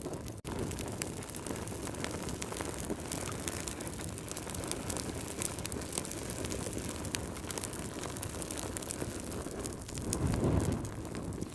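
Wood fire burning in a fireplace: a steady rushing hiss of flame with frequent sharp crackles and pops. There is a brief dropout just under half a second in, and a louder surge of flame about ten seconds in.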